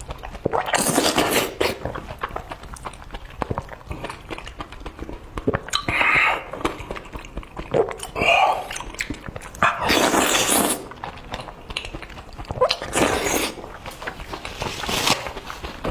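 A person eating noisily: about six loud, irregular slurps and mouth noises separated by quieter stretches.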